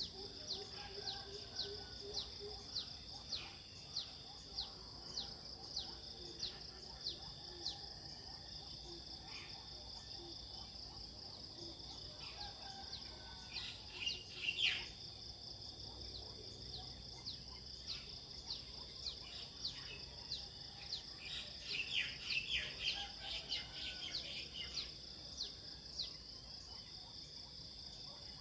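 Outdoor nature ambience: insects keep up a steady high-pitched drone while a bird repeats short downward chirps about twice a second. Other birds call in brief flurries around the middle and again later on.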